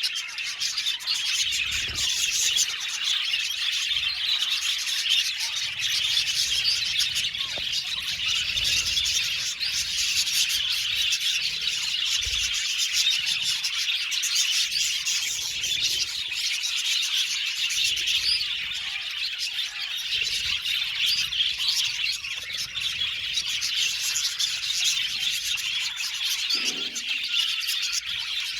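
Many budgerigars chattering and chirping at once, a dense unbroken twittering of a budgie colony.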